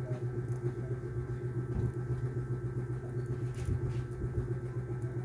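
A steady low machine hum with a faint constant whine above it, unchanging throughout.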